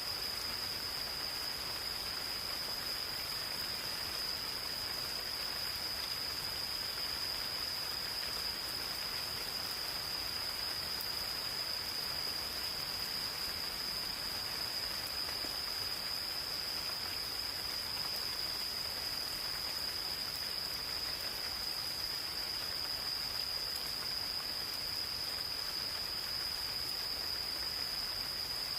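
Gentle rain falling in a forest as a soft, even hiss, with insects singing one unbroken, high-pitched steady trill throughout.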